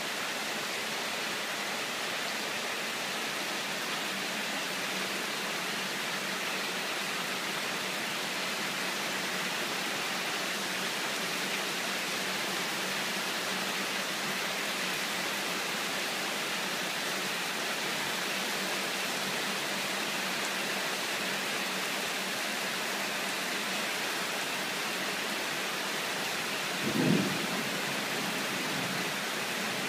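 Sudden torrential downpour of rain: a steady, even hiss. A brief low thump sounds near the end.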